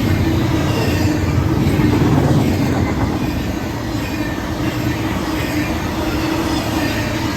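A train rolling by: a steady, loud rumble of wheels on rail, with faint high-pitched squeals from the wheels.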